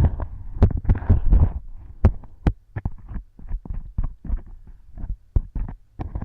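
Earwax-cleaning tools working inside a silicone ear model right at the microphone: irregular sharp clicks and crackles, with dull low thuds and short scraping rustles between them.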